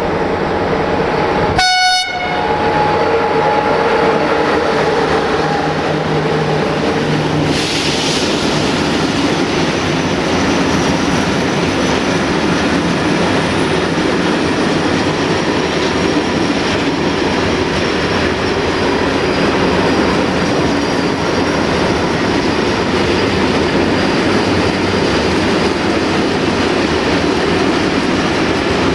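A short horn note from the LE5100KW electric locomotive about two seconds in, then the steady rolling noise of a loaded freight train's wagons passing close by on the rails.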